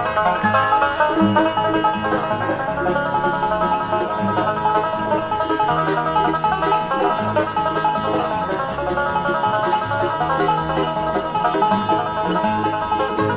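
Instrumental bluegrass breakdown at a fast tempo, a banjo picking a busy lead over guitar, mandolin and a bass line walking on the beat.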